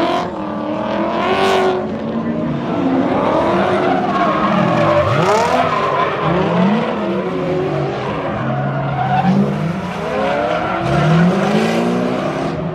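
Drift car engine revving up and down again and again as the car slides, with tyres squealing.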